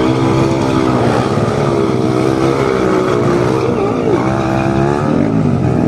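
Several motorcycle engines running at once, their pitch rising and falling a little as the throttles vary.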